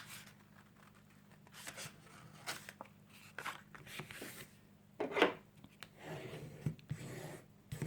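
Paper card base being folded in half by hand: scattered paper rustles and scrapes, with a sharper one about five seconds in and a stretch of rubbing near the end.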